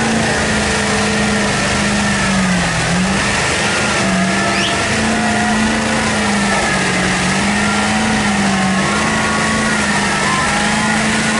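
Diesel engine of a Ford F250 mega truck running steadily, its pitch dipping and rising slightly as the throttle changes, over a dense wash of noise.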